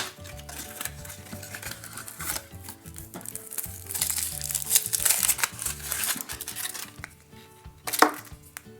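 A surprise egg's wrapper crinkling as it is unwrapped by hand, over background music, with a sharp click near the end.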